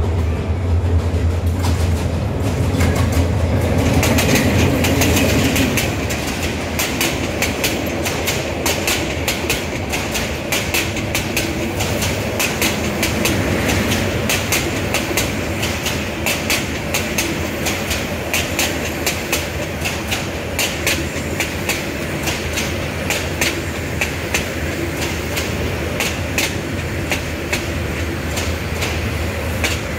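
Diesel-hauled passenger train running past: a low engine hum for the first few seconds as the locomotive goes by, then a long run of rhythmic clickety-clack as the coaches' wheels cross the rail joints.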